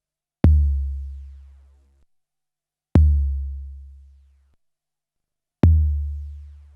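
A deep kick drum sample with a long, low booming tail, played back on an SP1200 12-bit sampler. It sounds three times, about two and a half seconds apart. Each hit starts with a sharp click, fades over a second and a half, then cuts off.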